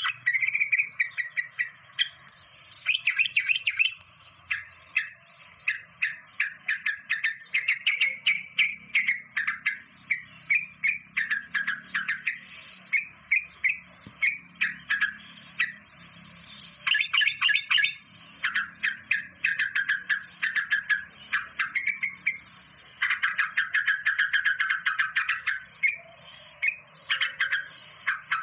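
Birds chirping in rapid runs of short, sharp notes, each run lasting a second or two with brief pauses between them.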